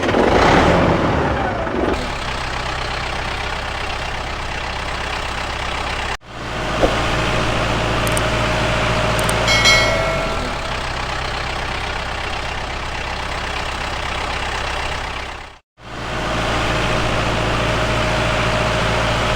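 A motor running steadily in a low drone, broken off abruptly twice by cuts. A short click comes about a third of the way in, and a brief high ringing tone just before the middle.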